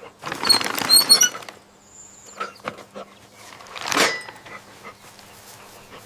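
Dog sounds: a loud noisy burst in the first second and a half, and another shorter one about four seconds in.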